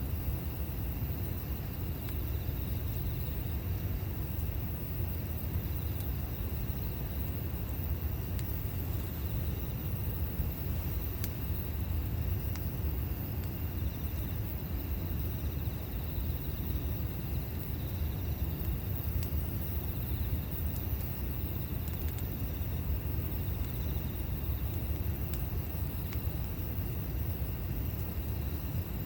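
Campfire burning: a steady low rumble with a few faint, scattered pops.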